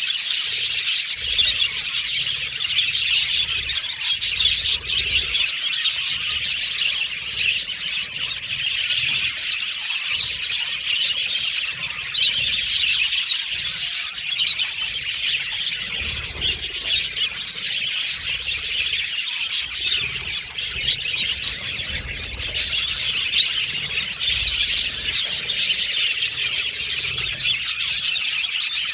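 A flock of budgerigars chattering and warbling together, a dense, continuous stream of quick, high chirps and twitters.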